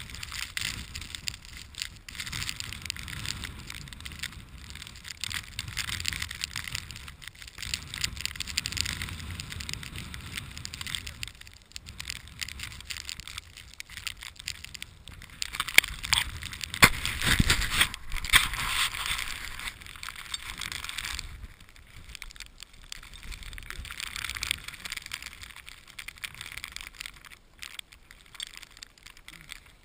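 Footsteps crunching through deep snow in a blizzard, uneven and crackly, with wind buffeting the microphone as a low rumble.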